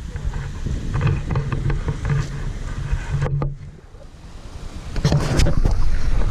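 Wind buffeting the microphone, with surf on the shore behind it. The rumble dips briefly a little past the middle, then comes back stronger for the last second or so.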